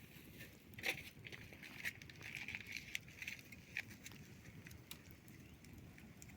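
Faint, irregular sharp clicks and crackles, with one louder snap about a second in, over a low steady background hiss.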